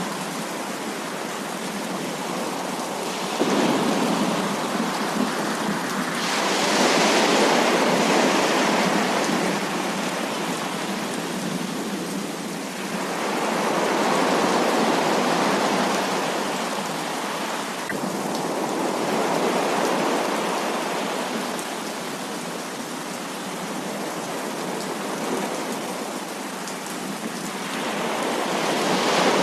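Heavy rain pouring down in a steady hiss that swells louder and eases off again several times.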